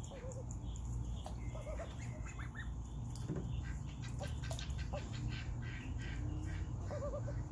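Young Indian runner ducks calling with short quavering peeps, with a run of quick clicks in the middle stretch, over a steady low hum.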